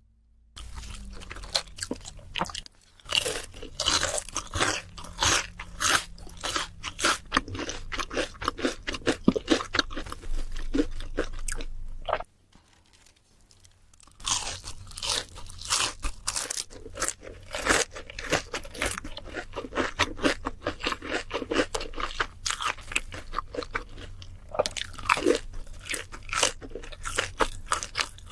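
Crunching and chewing of crispy fried food, a dense run of crisp crackling bites and chews that stops for about two seconds around the middle, then carries on.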